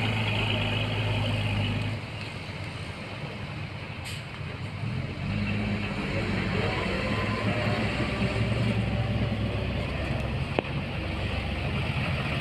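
Heavy diesel engine of earthmoving machinery running under load. It drops in level about two seconds in and then rises and falls again. A short hiss comes about four seconds in.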